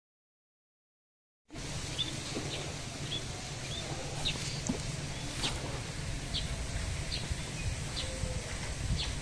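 Silent for about the first second and a half, then outdoor field ambience: short, high bird chirps repeating every half second to a second over a steady low rumble.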